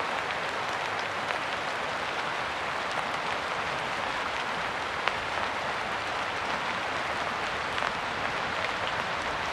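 Steady rain falling: an even hiss of many drops, with a few sharper individual drop hits, the loudest about five seconds in.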